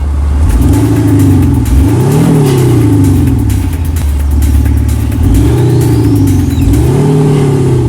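Ford Ranger Wildtrak pickup's add-on sound actuators playing a synthetic V8 engine note as it is revved. The pitch climbs and falls with the revs, peaking about two seconds in and again near the end.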